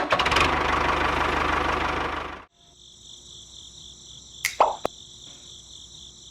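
A small engine running with a fast, even beat that cuts off suddenly about two and a half seconds in. After it comes a quieter, steady high trill, with two short clicks near the middle.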